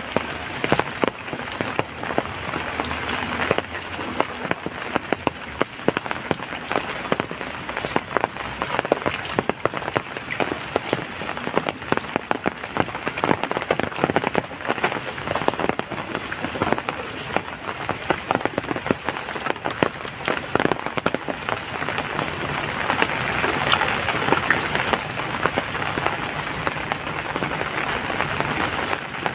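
Steady rainfall, with many distinct raindrop hits sounding over a continuous rushing hiss.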